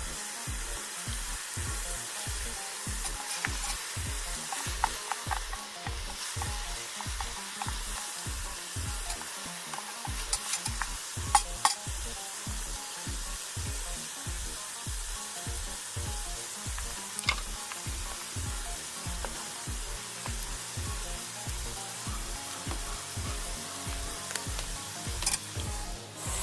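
Food sizzling and frying in an aluminium pot over a campfire while being stirred, with a steady hiss, low rhythmic strokes about twice a second and a few sharp clicks of the utensil against the pot.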